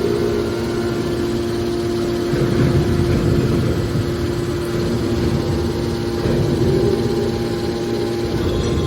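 Hydraulic can baler running: a steady motor-and-pump hum with a low rumble that swells and eases a couple of times.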